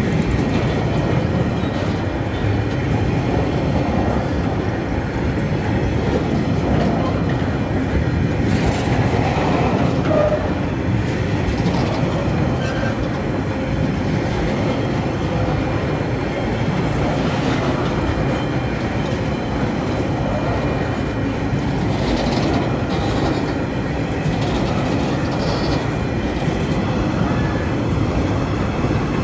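TasRail freight train's wagons rolling steadily past on the rails, a continuous wheel-on-rail rumble with scattered clacks from the wheels.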